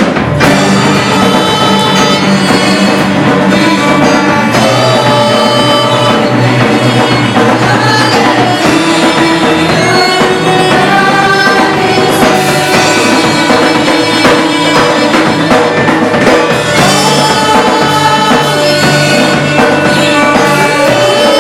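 A live worship band with a drum kit plays a song loudly and steadily, the full band coming in right at the start.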